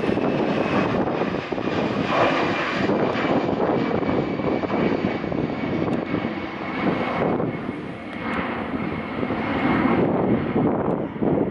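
Jet airliner's engines at takeoff power: a loud, steady rush with a faint high whine that falls slowly in pitch.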